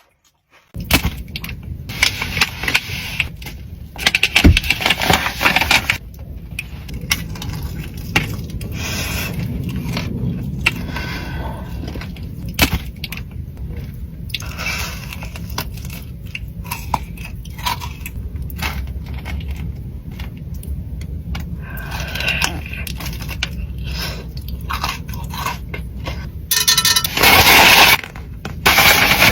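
Close-miked eating of chocolate bars: snapping, biting and chewing, with crackling and rustling, starting about a second in.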